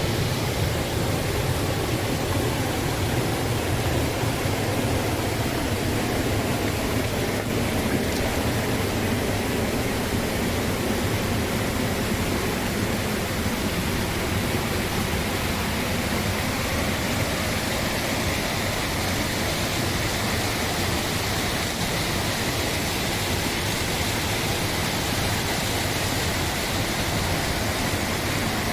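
Water rushing steadily, as at a waterfall: a continuous, even hiss that does not change.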